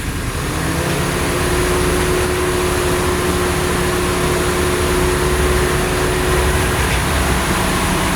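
2013 Chevrolet Avalanche's 5.3-litre V8 running as the truck creeps forward, with a steady whine from about a second in until near the end. The owner hears this as a clack-clack noise that was not there before and appeared the same day the transmission was repaired.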